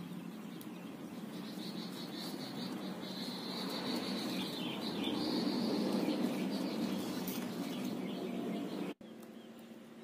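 Birds chirping high and repeatedly over a rushing noise that swells to its loudest about six seconds in. The sound drops away suddenly near the end and goes on fainter.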